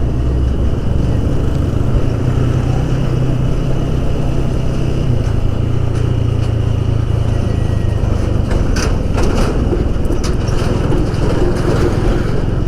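Motorcycle engine running steadily while riding on the road, with road and wind noise; the engine note changes about five seconds in, and a few sharp knocks come near the nine-second mark.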